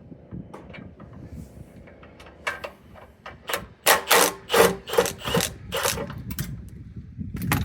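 A ratchet wrench worked back and forth in quick rasping strokes, a few a second and loudest in the middle, as it undoes the bolts holding a Honda F501 tiller's fuel tank.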